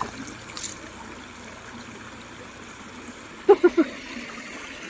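Shallow stream of spring water trickling steadily. About three and a half seconds in, a voice gives three short, quick sounds.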